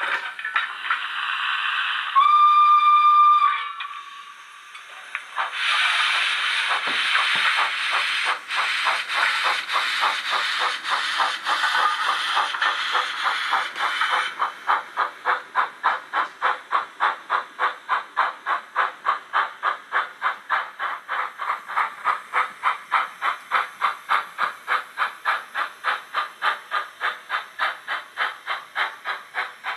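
Recorded steam-engine sound from the factory-fitted sound decoder of a Rapido OO-gauge Hunslet 16in 0-6-0 saddle tank model, played through its small speaker. A whistle toot ends just after the start and a second one comes about two seconds in. After a short pause the locomotive starts off with loud steam hiss over its chuffs, then settles into steady, even chuffing at about three beats a second from about halfway through.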